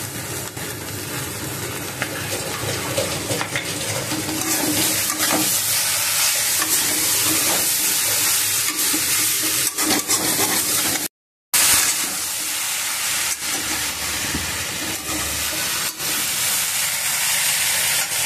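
Sliced okra and potatoes sizzling as they fry in a kadhai, with a steel spatula scraping and clicking against the pan as they are stirred. The sound cuts out completely for about half a second roughly two-thirds of the way through.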